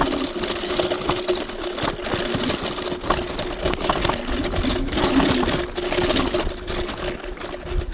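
TRBK-M2 electric hyperscooter riding over rough dirt trail: the motor gives a steady whine, over a continual clatter and rattle from the scooter and the uneven ground, with low rumble.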